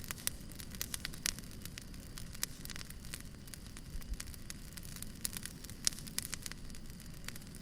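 Firewood burning, crackling with irregular sharp pops and snaps over a low, steady rumble of the flames.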